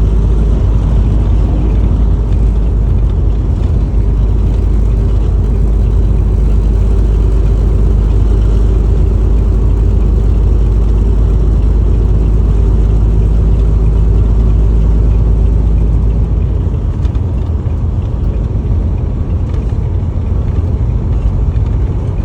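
Car driving along with a steady low engine and road rumble that lightens about sixteen seconds in.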